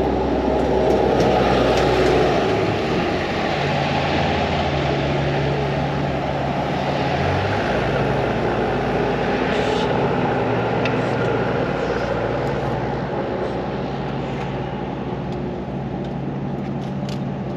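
Road vehicle driving steadily: a low engine drone with tyre and road noise. The engine pitch shifts partway through, about seven seconds in.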